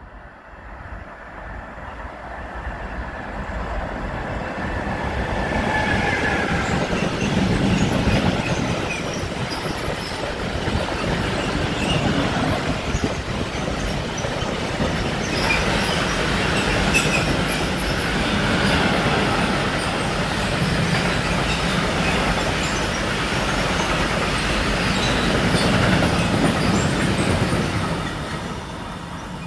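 DB Cargo freight train passing at speed on the through track, a long string of covered sliding-wall wagons rolling by with a dense rumble of wheels on rail and brief high wheel squeals. The sound swells over the first few seconds as the locomotive arrives and drops away near the end as the last wagons pass.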